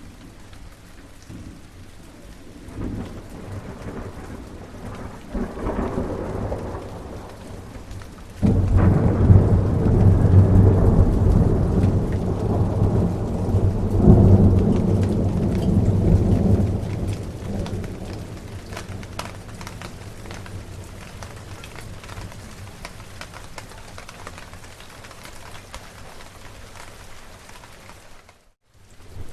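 Thunderstorm: steady rain with fine drops pattering, and rolling thunder. A low rumble swells a few seconds in, then a loud thunderclap about eight seconds in rumbles on for several seconds, surges again around fourteen seconds and fades back under the rain. The sound cuts out for a moment near the end.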